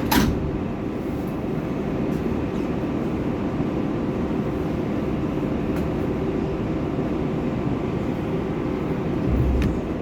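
R188 subway car's doors knocking shut right at the start, then the train pulling out and running with a steady rumble heard from inside the car, with a low surge near the end.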